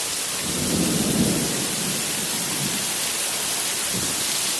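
Heavy rain pouring down, a loud steady hiss, with a low rumble about a second in.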